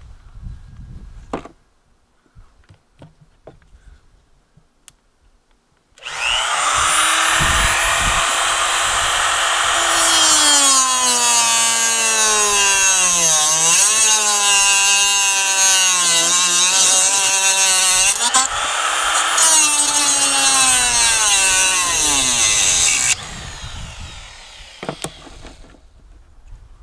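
An electric power tool running hard for about seventeen seconds, its motor pitch repeatedly sagging and recovering as it works against the material, then cutting off suddenly. A few light clicks come before it starts.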